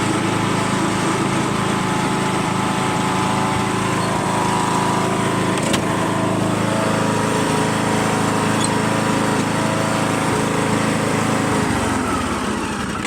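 A John Deere tractor's engine running steadily, then shut off near the end, its pitch dropping as it winds down.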